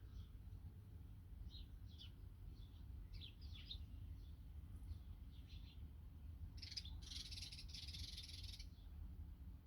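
Small birds chirping in short, scattered calls, then a dense buzzy trill for about two seconds near the end, faint over a steady low rumble.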